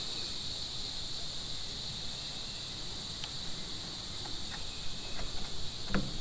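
Steady chorus of insects such as crickets, a continuous high buzz, with a few light clicks near the end.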